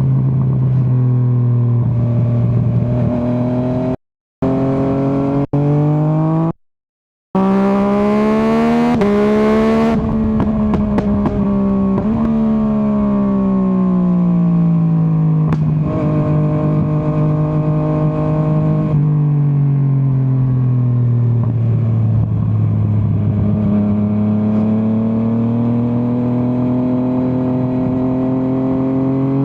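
Yamaha MT-09's three-cylinder engine under way, its pitch climbing and dropping repeatedly as the rider accelerates and rolls off through the gears. As the revs fall about ten seconds in, a run of sharp crackles and pops comes from the exhaust. The sound cuts out briefly twice early on.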